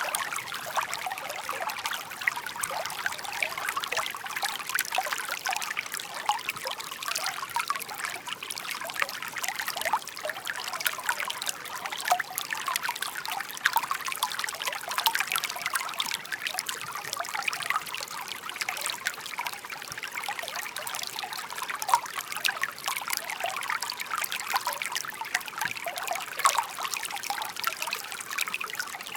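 Shallow stream babbling and trickling over stones, a steady run of many small bright splashes.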